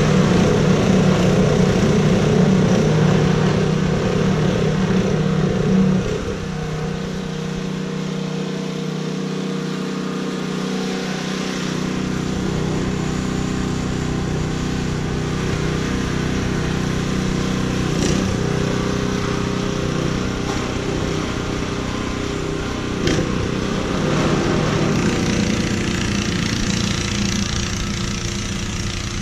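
An engine running steadily. About six seconds in, it drops a little in pitch and loudness and then runs on evenly, with a couple of faint clicks later.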